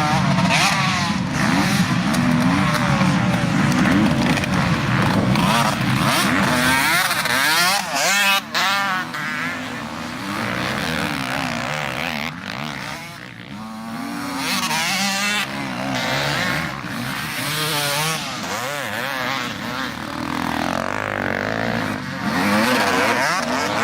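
Several motocross motorcycles racing, their engines revving up and down over one another as bikes pass, with the sound thinning briefly a few times.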